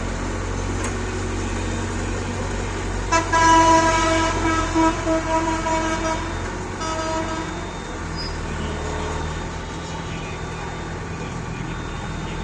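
A steady low engine rumble from a heavy vehicle runs throughout. About three seconds in, a vehicle horn gives a string of short honks lasting about four seconds.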